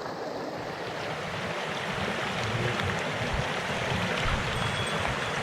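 Mountain stream water rushing steadily over rocks, growing gradually louder.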